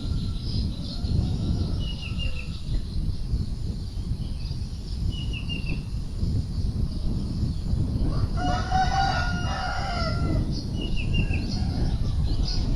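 A rooster crows once, a single call of about two seconds, about eight seconds in. Short high chirps come every few seconds over a steady low rumble.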